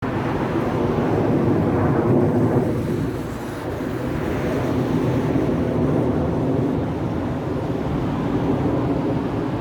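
RSAF fighter jets roaring over: a continuous jet-engine roar that eases slightly a few seconds in, then holds steady.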